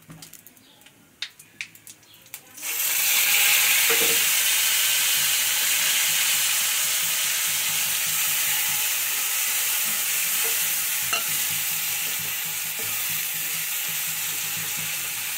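A few faint clicks as a gas stove knob is turned. About three seconds in, ground onion, ginger, garlic and green chilli paste hits hot oil in a wok and sizzles suddenly and loudly, then keeps frying steadily while stirred with a spatula.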